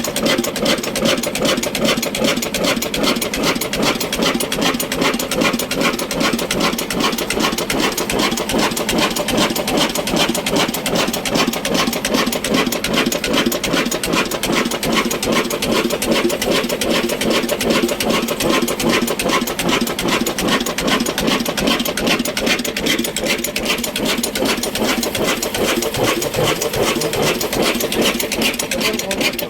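Old Ruston Hornsby stationary diesel engine running steadily with a fast, even beat.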